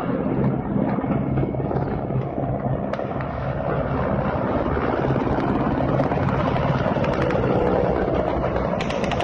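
Low-flying military attack helicopter, its rotor beating in a fast, steady chop over a low engine drone.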